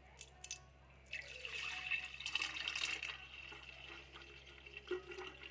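Liquid being poured into a container, a splashing stream with a ringing tone that starts about a second in, is loudest for the next two seconds and then tails off, with a couple of small clicks before it.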